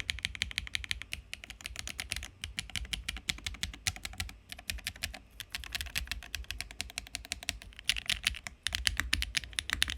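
Fast typing on a Neo80 aluminium mechanical keyboard with HMX Lotus switches, carbon fibre plate and MV Expo keycaps: a dense run of bright, clacky keystrokes with a few short pauses.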